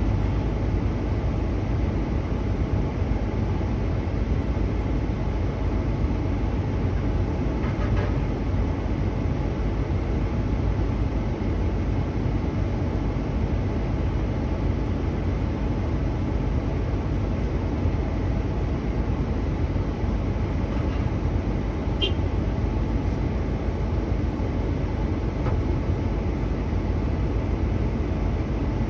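Truck engine running with a steady low rumble, with one faint click about two-thirds of the way through.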